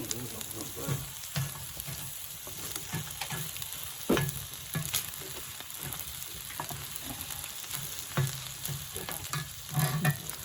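Pork belly sizzling and frying on a steel griddle plate over a wood fire: a steady crackling hiss with a few sharp clicks.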